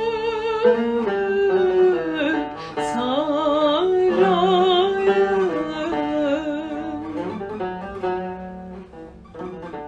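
Turkish art song: a female voice sings a long ornamented melisma with vibrato over plucked string accompaniment, fading toward the end.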